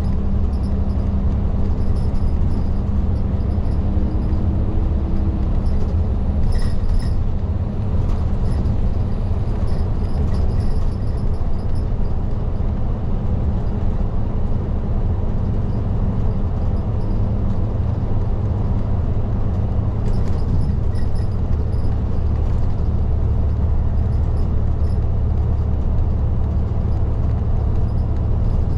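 Isuzu Erga city bus (LDG-KV234Q3) running, heard from the front of the cabin: a steady, loud low drone of engine and road noise, with a few faint clicks and rattles.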